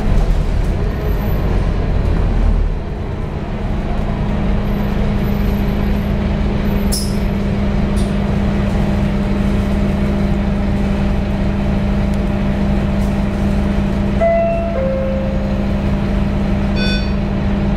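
A Scania K230UB bus running, heard on board: a steady engine and drivetrain hum with a constant whining tone. About fourteen seconds in comes a short two-note falling chime, and there is a brief high beep near the end.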